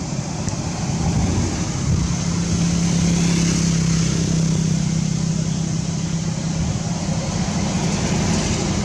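A motor vehicle engine running steadily with a low hum, louder from about two seconds in, over a steady hiss.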